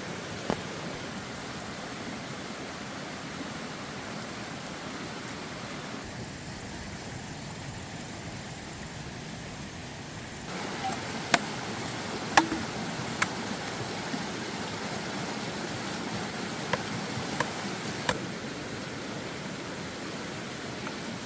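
Steady rushing noise of water, with a handful of sharp clicks or knocks in the second half.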